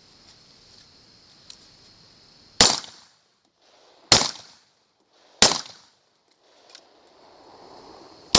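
Suppressed gunshots: three shots roughly a second and a half apart, and a fourth just at the end.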